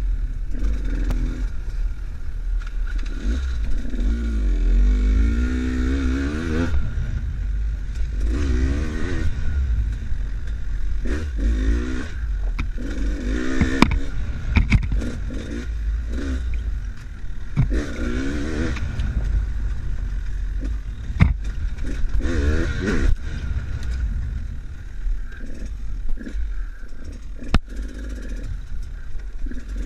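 Enduro motorcycle engine revving up and down over and over as the bike is ridden off-road, with a heavy low rumble, clattering, and several sharp knocks along the way.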